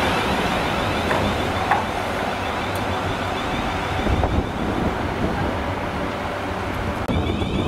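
South Western Railway Class 444 electric multiple unit running slowly into the platform: a steady running noise of wheels on rail, with a few faint clicks.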